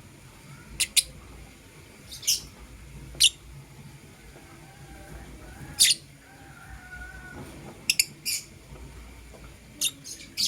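Lovebirds giving short, sharp, high-pitched chirps, about nine scattered irregularly, some in quick pairs.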